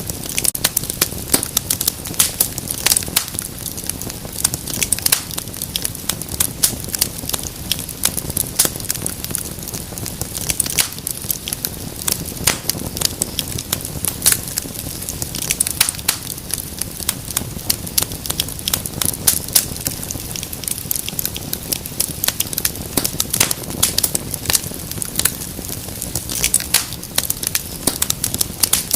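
Wood fire crackling: frequent sharp pops and snaps at irregular intervals over a soft, steady low rumble of burning.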